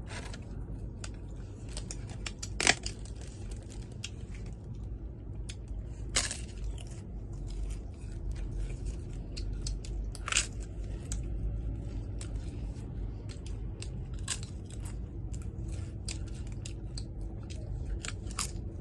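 Close-up eating sounds: chewing and crunching food, with many small clicks and snaps of utensils and food. The sharpest click comes about three seconds in.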